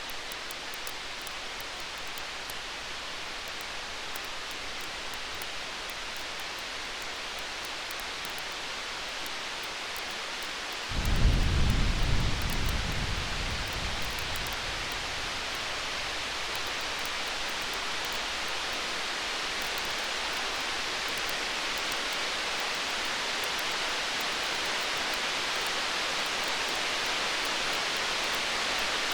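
Steady hiss of a crackling campfire with light rain, and a roll of distant thunder about a third of the way in that rumbles low for a few seconds and then fades back into the hiss.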